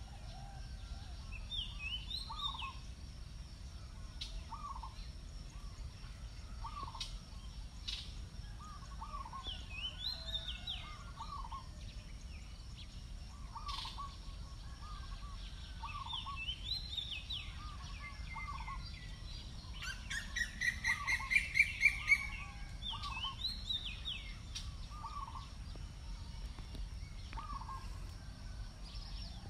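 Birds calling: a short call repeated about every second and a half, higher chirps every few seconds, and a loud rapid series of notes around twenty seconds in.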